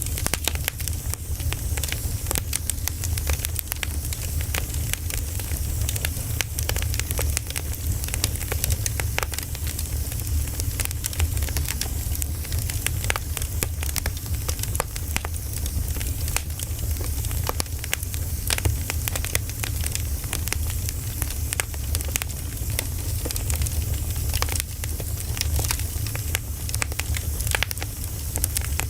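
Wood fire burning, crackling and popping with dense irregular snaps over a steady low rumble.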